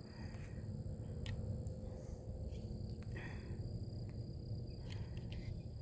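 Quiet outdoor ambience: a steady, high insect trill, most likely crickets, over a low rumble.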